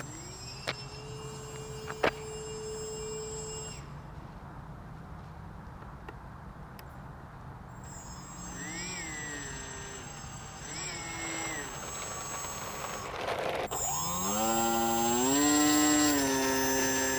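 Small electric motor of an AeroScout RC plane whining, its pitch rising and falling with throttle changes and climbing to its loudest near the end. A couple of sharp clicks come in the first two seconds.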